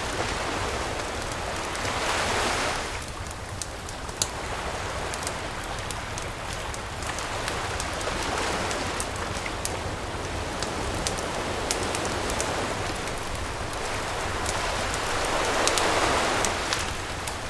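Campfire crackling with scattered sharp pops over the wash of surf on a beach; the waves swell twice, about two seconds in and again near the end.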